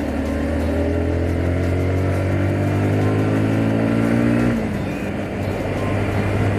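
Yamaha R15 S single-cylinder engine and exhaust pulling under acceleration, its note climbing slowly. About four and a half seconds in the pitch drops sharply, and it runs on at lower revs.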